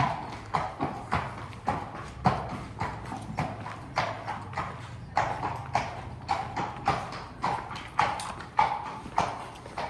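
Steady hard footfalls on a firm barn floor, about two a second, each a sharp clack.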